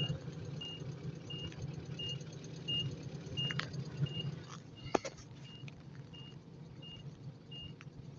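A vehicle's electronic warning beeper giving short high beeps about every two-thirds of a second, over a low steady hum. A sharp click sounds about five seconds in.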